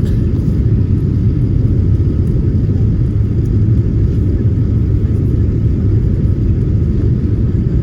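Airliner in flight: a steady low rumble of the jet engines and airflow, heard inside the passenger cabin.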